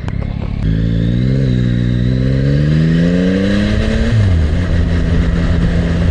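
Yamaha MT-09's inline-three engine accelerating, its pitch climbing for about three seconds, then dropping sharply about four seconds in and running on steady at a lower pitch. A couple of short clicks come in the first second.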